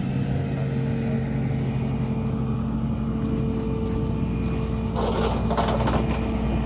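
Truck engine running steadily, with a short burst of rattling about five seconds in.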